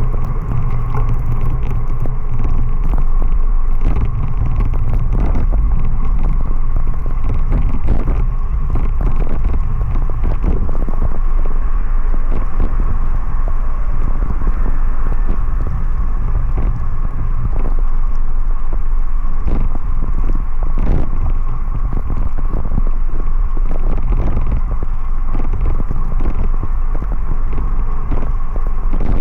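Heavy wind rumble buffeting a camera microphone while riding, with road noise, a steady thin whine and scattered crackles.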